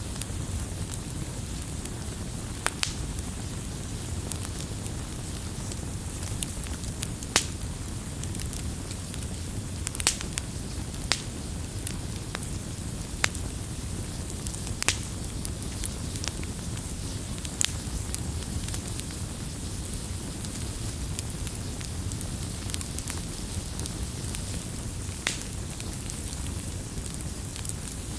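Firewood burning with a steady low rumble and hiss, and sharp crackles and pops every second or two.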